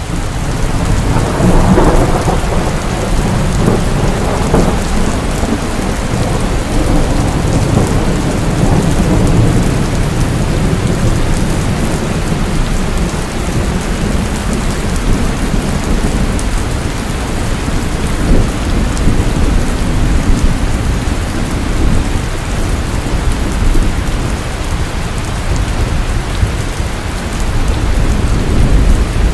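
Steady rain falling, with a roll of thunder swelling about a second or two in and rumbling on beneath it.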